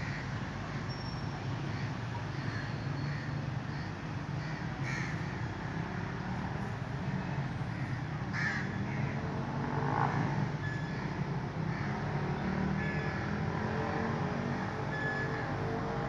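A few short, harsh animal calls at scattered moments over a steady low background rumble.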